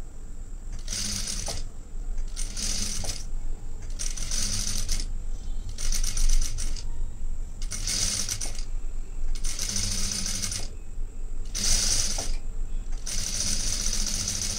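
Sewing machine stitching along a fabric edge in short runs of about a second, stopping and starting again and again.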